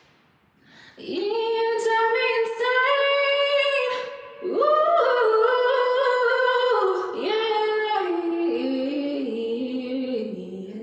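A woman singing a cappella with no instruments: three long, held phrases, the last one stepping down in pitch towards the end.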